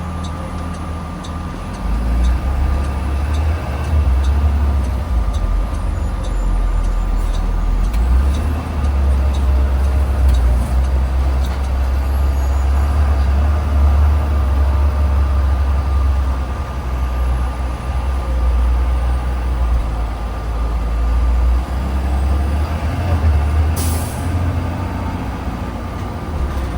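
Blue Bird Vision school bus heard from inside while it drives: a steady low engine and road rumble that swells about two seconds in as it pulls away, with a short sharp hiss of air near the end.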